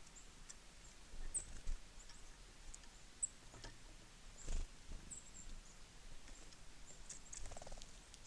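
Small birds at a winter feeder giving scattered short, high, thin chip calls, with a few dull thumps, the loudest about four and a half seconds in.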